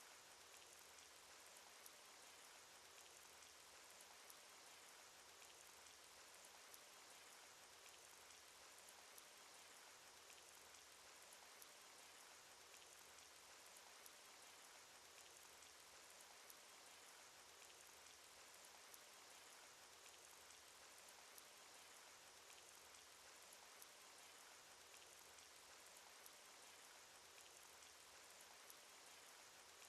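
Cartoon rain sound effect: a faint, steady hiss of falling rain with many small drop ticks scattered through it.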